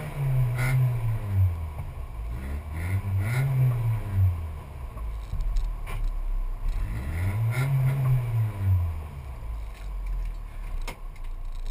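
Škoda Felicia rally car's engine, heard from inside the cabin, revved up and back down several times while the car sits nearly still, with a few sharp clicks.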